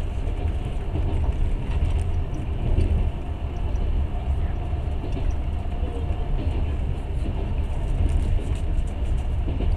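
Passenger train running along the line, heard from inside the carriage: a steady low rumble.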